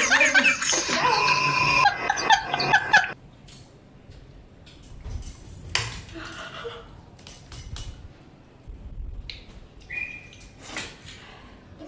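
People's voices, talking and laughing, for about the first three seconds. Then it goes much quieter, with scattered small clicks and knocks.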